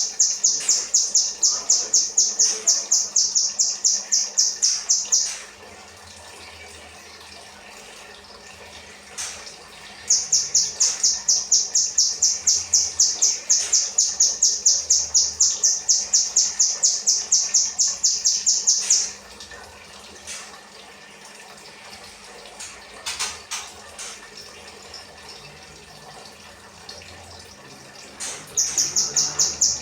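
Kinoi bird singing a 'rambatan' run: long strings of high, sharp chip notes repeated about four times a second. It comes in three bouts, separated by pauses of several seconds.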